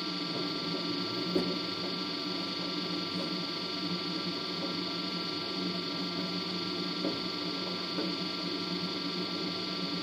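LG DirectDrive F1496AD washer dryer running its drying cycle, a steady hum and whine from the drum and drying fan as it tumbles a load of towels. A sharp click about a second and a half in and a couple of faint knocks later on.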